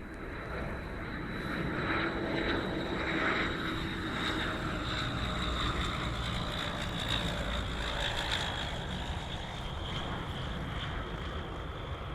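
Rolls-Royce Dart turboprop engines of a YS-11FC, a steady high whine over the propellers' drone. The sound swells over the first two seconds and eases slowly toward the end.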